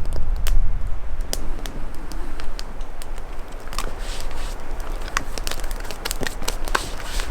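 Small newly lit campfire of kindling crackling, with irregular sharp pops and snaps over a low rumble.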